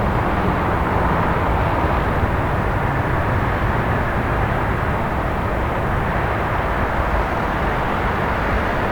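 Steady city traffic rumble: an even wash of noise with no single vehicle or event standing out.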